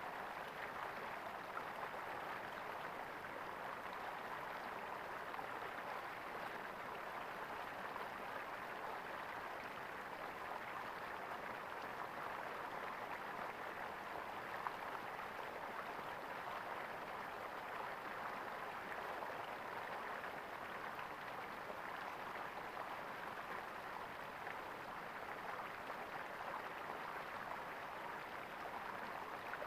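Water gurgling and flowing steadily, an even rushing with no break or change.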